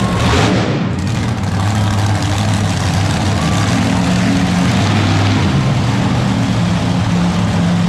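Monster truck engine running loud and steady, its low note shifting up and down with the throttle.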